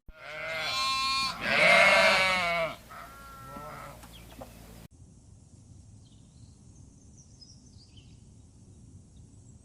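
An animal bleating: two loud, wavering calls, the second the loudest, then a shorter, fainter one. After a sudden cut, faint outdoor ambience with a few high bird chirps.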